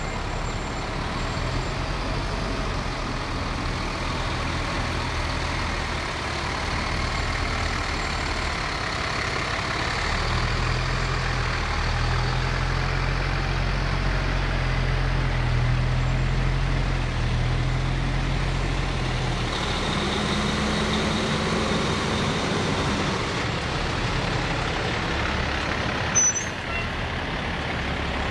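Fire trucks' heavy engines running as the apparatus drives slowly past, a steady low rumble that swells and fades, with one brief sharp click near the end.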